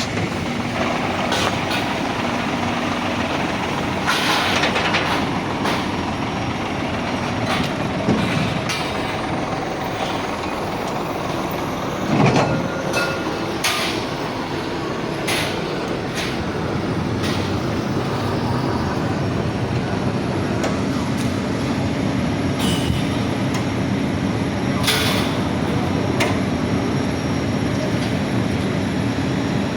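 Container truck running with steady mechanical rumble and rattle, with several sharp metallic clanks and a brief dip and rise in engine pitch.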